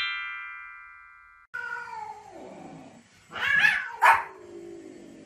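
A chime-like jingle rings and fades over the first second and a half. Then comes a long call falling in pitch, and a small dog barks twice in quick succession about three and a half and four seconds in, the barks being the loudest sounds.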